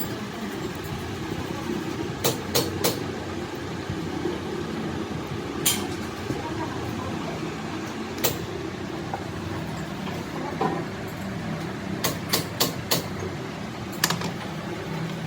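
Workshop machinery running with a steady drone, broken by sharp knocks of tools on parts, with a quick run of three knocks about two seconds in and four more around twelve seconds in.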